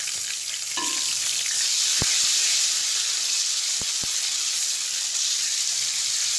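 Chopped tomato sizzling in hot oil with browned onions in a metal karahi, stirred with a spatula; the sizzle grows louder about a second in, with a few sharp clicks of the spatula against the pan.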